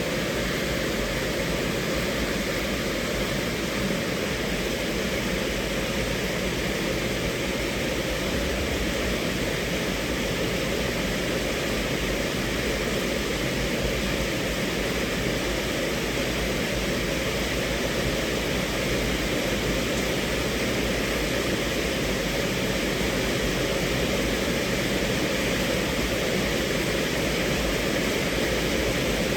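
Steady rain falling on a car's roof and windows, heard from inside the cabin as an even, unbroken hiss.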